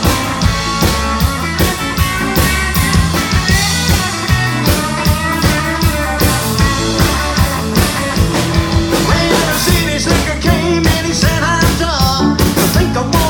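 Country band playing an up-tempo instrumental break: a steady drum beat and bass line under a lead instrument playing bending notes.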